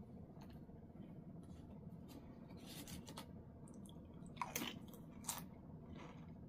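Faint chewing and wet mouth sounds, with scattered small clicks and two sharper smacks about halfway through.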